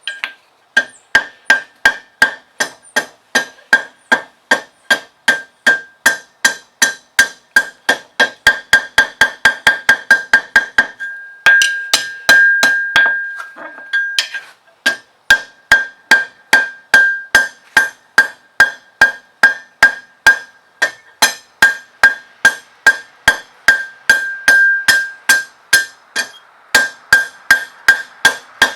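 Blacksmith's hammer striking steel on an anvil, about three blows a second, each blow ringing with a high, clear anvil tone. About halfway through the hammering stops for a few seconds while the anvil rings on, then resumes at the same pace.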